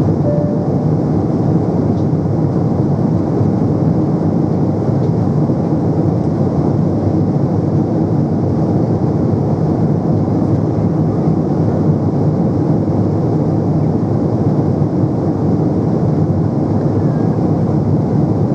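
Steady in-flight cabin noise of a Boeing 777-300 airliner: its engines and the rushing airflow, heard as an even low drone.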